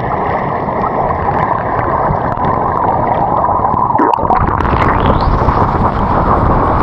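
Water rushing and gurgling right at the microphone, a steady muffled wash. About four seconds in it turns fuller and deeper.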